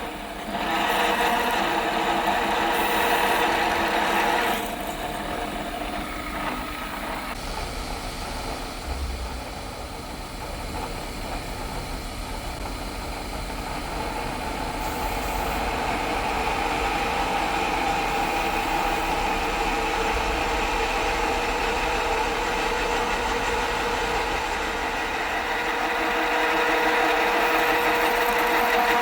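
Milling machine running steadily while drilling bolt holes through a steel plate, a continuous machine hum with a drilling noise that eases off around four seconds in and builds again later.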